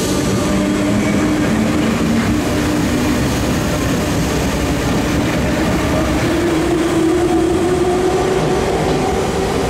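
RER B electric commuter train pulling out of the station, its wheels rumbling on the rails. Its traction motor whine rises in pitch as it picks up speed in the second half.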